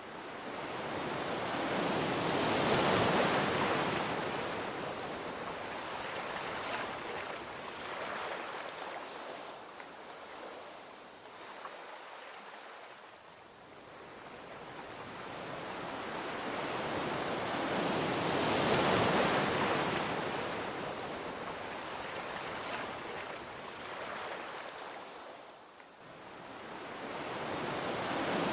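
Gentle ocean waves washing onto a beach. The surf swells and fades slowly, with one wave breaking about three seconds in, another a little past halfway, and a third building near the end.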